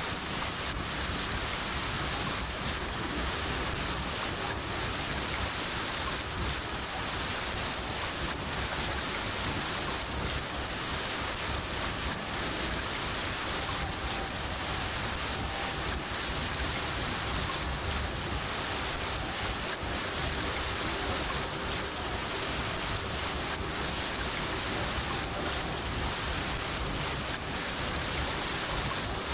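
A cricket chirping in a steady, evenly spaced, high-pitched rhythm over the constant hiss of falling rain.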